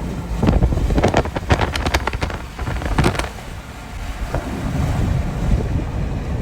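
Strong wind buffeting the microphone through an open vehicle window, over a constant low rumble, with a run of sharp gusts in the first three seconds that ease off after that.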